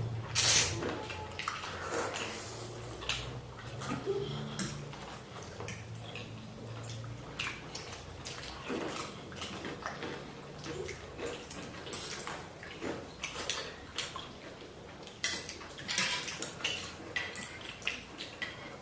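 Eating noodle soup from a bowl: a spoon or fork clicking and clinking against the bowl at irregular intervals, with wet slurping and mouth sounds between.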